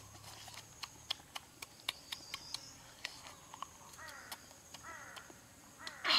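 Soft, irregular clicks and smacks of a child chewing and eating with his fingers. A louder burst of rushing noise starts right at the end.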